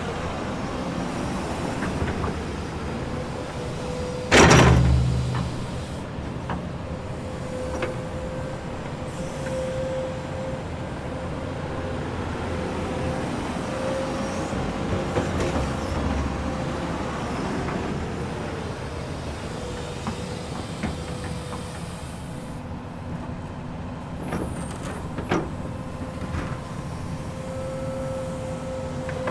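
Komatsu excavator running with a steady engine rumble and a thin steady tone over it, with a loud sudden clank about four seconds in and a smaller knock later on.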